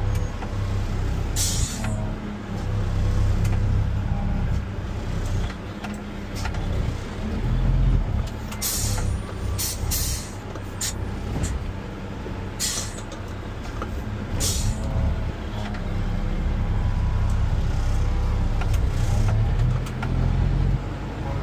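Front-load garbage truck's diesel engine running steadily, with short sharp hisses of released air several times, mostly bunched in the middle.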